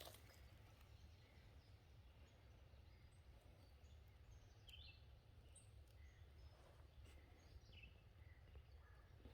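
Near silence in a spring woodland: faint, scattered short bird chirps over a low steady rumble.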